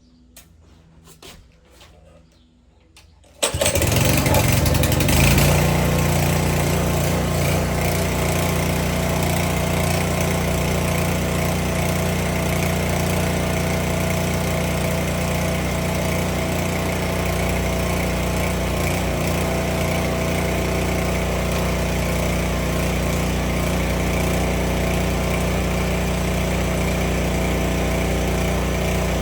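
Gas pressure washer's small engine starting about three and a half seconds in, revving up briefly, then settling to a steady run.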